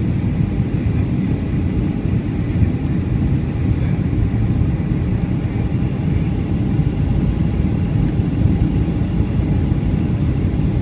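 Steady low rumble of a Boeing 757-200 airliner in flight, heard from inside the cabin: engine and airflow noise with a faint constant hum above it.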